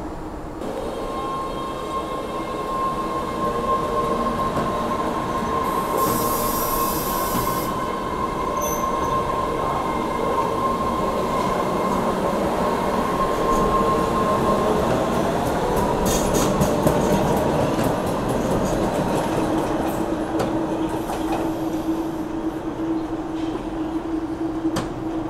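Train running on rails with its wheels squealing: a steady high squeal for about the first fifteen seconds, then a lower steady squeal toward the end, over a continuous rumble, with a few sharp clicks along the way.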